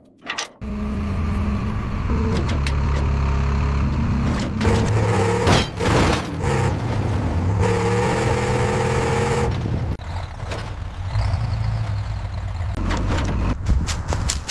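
A vehicle engine running steadily with a low hum and a few knocks, giving way about ten seconds in to a rougher, less steady mechanical sound.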